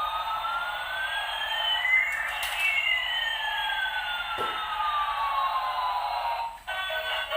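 Electronic jet-engine sound effect from a toy airliner's small speaker: a steady hissing whoosh with one whine rising and another falling through it, crossing partway through. It cuts off about six and a half seconds in, with a light knock shortly before.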